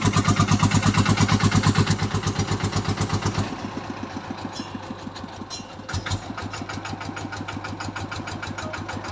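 Loaded truck's engine working hard with a fast, even pulsing beat. About three and a half seconds in it drops to a quieter, steadier running. A single knock comes about six seconds in.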